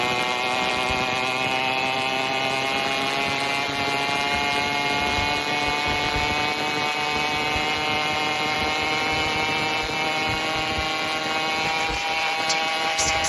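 Phantom 85 two-stroke motorized-bicycle engine running with no exhaust fitted. Its pitch climbs slowly as the engine speeds up, then holds steady near the end.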